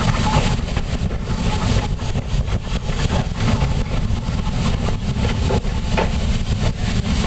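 North Shore Line electric interurban car running along the track, heard from on board: a steady, loud rumble with scattered clicks.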